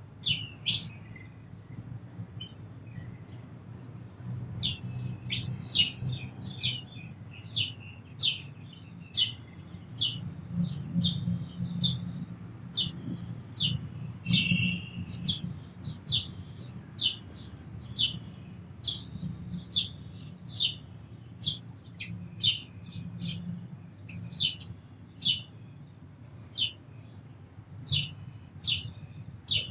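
House sparrow chirping: short, sharp, downward-sweeping cheeps repeated roughly once a second, over a steady low hum.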